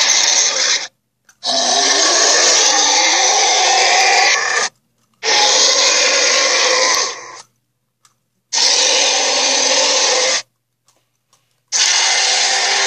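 Allosaurus roar sound effects: a run of loud, rasping roars, each about two to three seconds long, with a short silence between them, starting and stopping abruptly.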